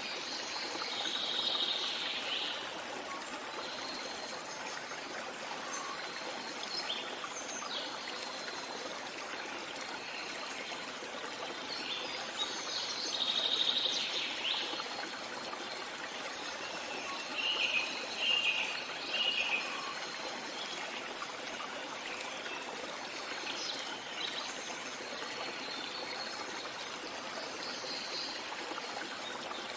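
Steady rush of a flowing stream with birds singing now and then over it: a few short phrases of song and a quick run of chirps, each lasting a second or two.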